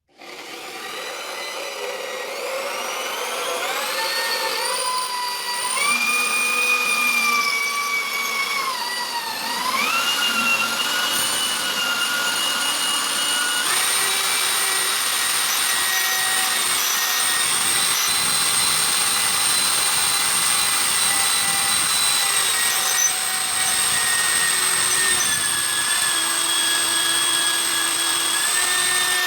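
Electric power tool motor whining as it spins wood for friction welding. The pitch climbs over the first few seconds, dips sharply about nine seconds in, then jumps up and holds, shifting a few more times.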